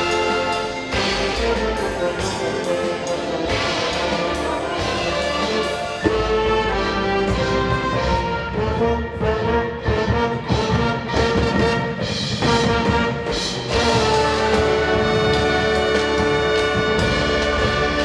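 Indoor winds ensemble playing live: brass-heavy chords over percussion, with a sharp accent about six seconds in, drum hits through the middle, and a full held chord from about fourteen seconds.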